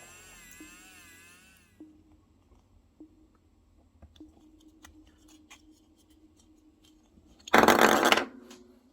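Background music ends, followed by a few faint clicks and a brief, loud rustling burst near the end.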